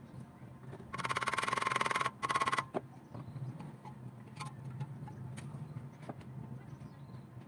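Stick welding arc crackling on a car muffler with an E6013 rod, in two short strikes: about a second long, then about half a second, over a steady low hum.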